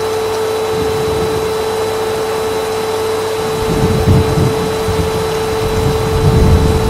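Vacuum cleaner running steadily, its motor whine holding one pitch. About halfway through a low rumble swells in and out, as of the nozzle working across the floor.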